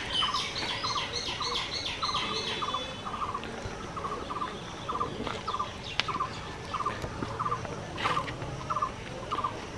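Birds calling: one gives a short call two to three times a second throughout, while another sings a quick, higher run of repeated notes over it for the first three seconds.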